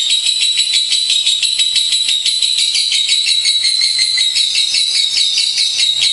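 Lovebirds chattering in an unbroken stream of rapid, high-pitched chirps, many per second.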